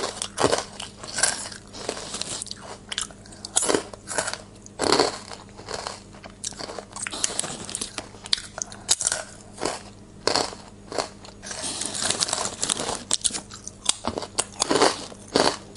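Crunchy chewing: irregular crisp crunches and bites in quick succession, over a faint steady low hum.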